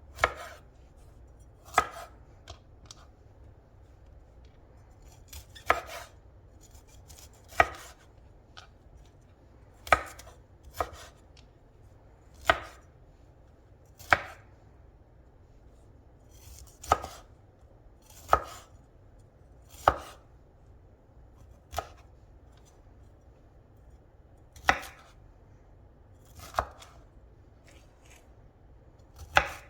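Kitchen knife chopping food on a cutting board: about fifteen single cuts, one every second or two, each a sharp knock of the blade on the board.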